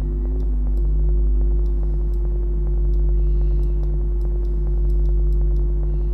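Synthetic ambient noise texture from Ableton Live's Echo plugin noise generator, with wobble and morph applied. A steady deep rumble and hum sit under a hiss with scattered faint clicks, like a room tone with a vinyl-crackle character.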